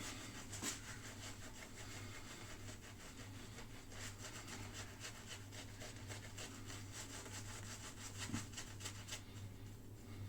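Razor scraping over stubble in a rapid rasping crackle, densest in the middle, over a steady low electrical hum.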